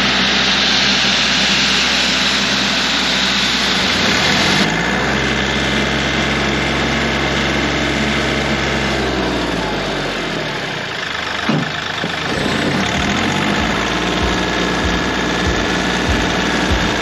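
Kioti CK3510 compact tractor's three-cylinder diesel engine running steadily. Its note drops about two-thirds of the way through, and short knocks follow near the end.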